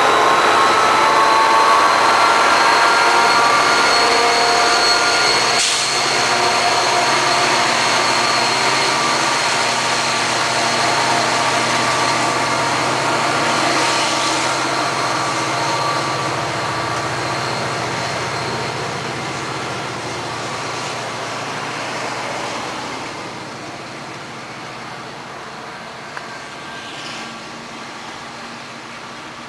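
NJ Transit train running past and fading away, with a high steady wheel squeal that dies out as the train recedes.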